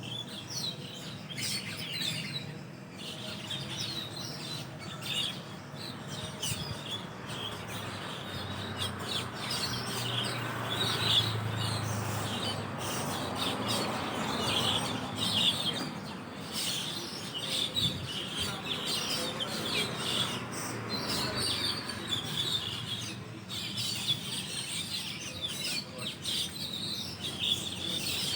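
A large roosting flock of Asian glossy starlings chirping and chattering without pause, many birds calling over one another. A low rumble swells and fades in the middle.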